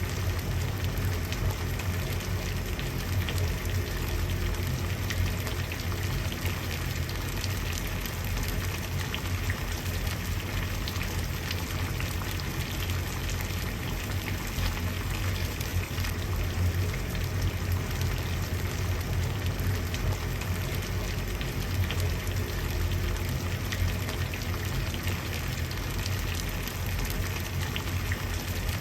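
Water at a steady rolling boil: continuous bubbling with many small pops over a low rumble.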